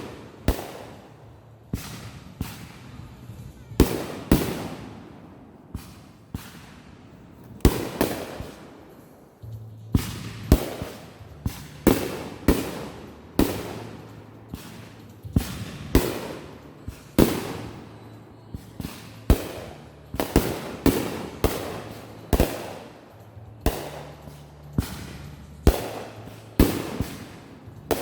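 Consumer fireworks going off in quick succession: a steady string of sharp bangs, each with a short fading rumble after it, about one or two a second.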